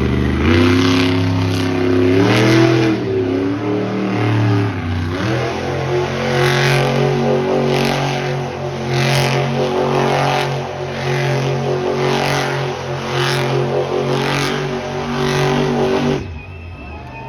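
Monster truck engine at high revs: it rises and falls for the first few seconds, then holds steady at full throttle with a sharp burst about once a second. The engine sound drops away about a second before the end.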